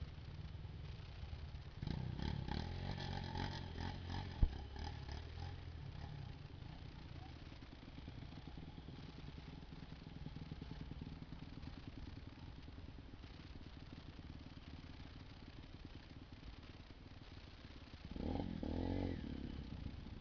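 Yamaha YZ250F dirt bike engine running at low revs on a trail, revving up about two seconds in and again near the end. A single sharp click comes about four seconds in.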